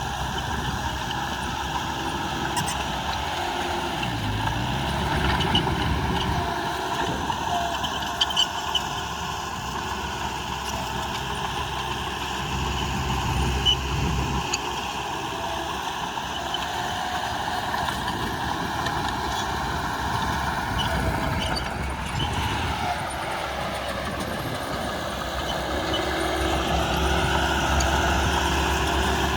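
Heavy diesel earthmoving machinery running under work, with a few short metallic clanks; the engine note shifts and rises near the end.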